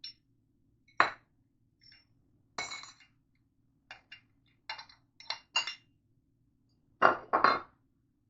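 Meat grinder parts clinking and knocking against each other as a tabbed piece is worked onto the grinder and will not seat: a dozen or so separate sharp knocks, the loudest two close together near the end.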